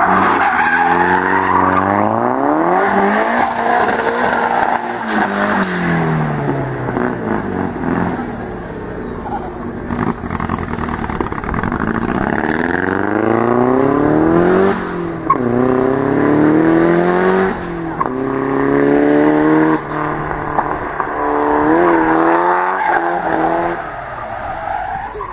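Nissan Laurel C33 drift car's turbocharged CA18DET four-cylinder engine revving hard and lifting off again and again as the car slides through the corners, its pitch sweeping up and dropping back many times, with tyres skidding.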